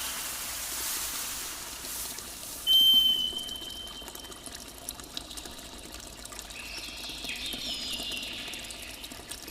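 Water trickling and pouring, fading down. A loud, brief high steady tone comes a little under three seconds in, and faint high chirps follow later.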